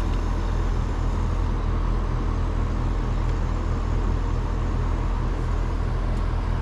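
Trane two-stage air-conditioner condenser unit running steadily: a low electrical hum with even fan and air noise.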